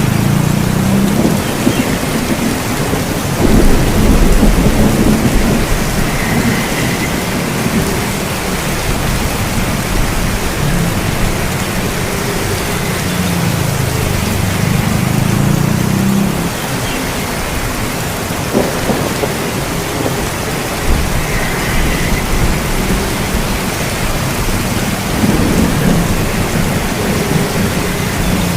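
Steady rain with rolling thunder. A louder rumble of thunder starts about three and a half seconds in, and further low rumbles swell and fade later on.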